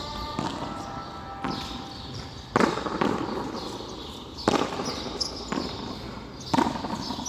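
Frontón handball rally: a series of sharp smacks, about one a second, as the ball is struck by hand and slams off the court wall, each ringing with echo.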